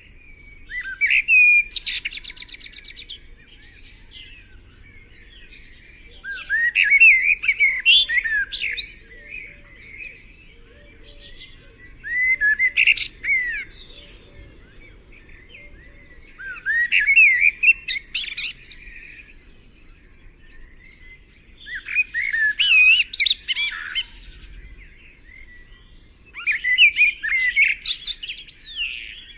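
A songbird singing: six short phrases of quick, varied chirps and whistles, each about two seconds long, repeated roughly every five seconds.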